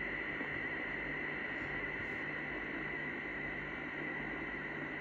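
Sideband hiss and band static from a President Washington CB radio's speaker between transmissions, with a steady high whistle running through it.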